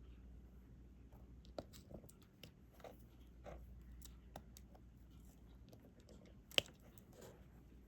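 Diamond painting pen tapping drills onto the canvas: faint, irregular small clicks and taps, with one sharper click about six and a half seconds in.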